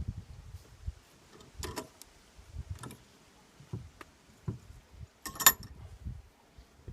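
Scattered knocks and clicks as a metal two-stroke exhaust pipe and its blow-out kit fittings are handled and turned, with the loudest clatter about five and a half seconds in.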